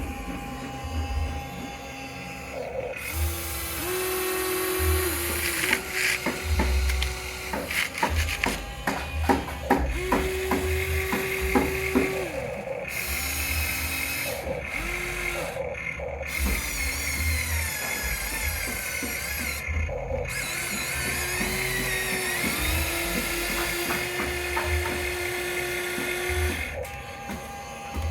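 Small electric motors and plastic gearboxes of radio-controlled construction models whining in short bursts that rise, hold and fall as the controls are worked, with clusters of gear clicks in the middle.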